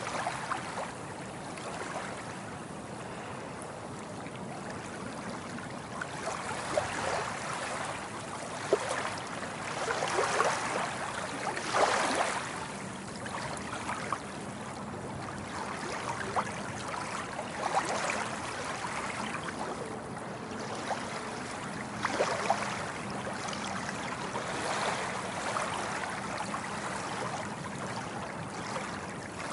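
Sea waves washing and lapping on a shore: a steady wash of water rising and falling, with several louder surges as bigger waves break.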